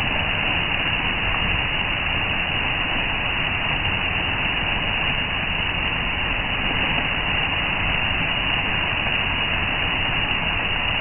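Park fountain water splashing and falling in a steady, unbroken rush.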